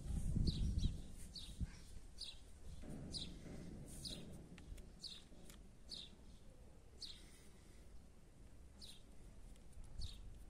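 A small bird calling over and over: short, high, falling chirps about once a second. Low rumbling noise runs under the first second and again around three seconds in.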